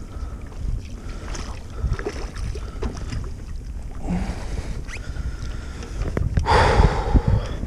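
Water lapping and sloshing against a kayak hull, with small knocks and wind buffeting the microphone. A louder rush of water comes about six and a half seconds in.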